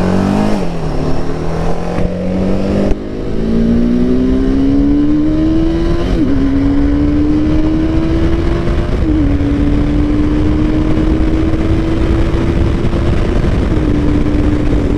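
Motorcycle engine accelerating through the gears: its note climbs steadily and drops sharply at each upshift, about five times, over steady wind and road noise.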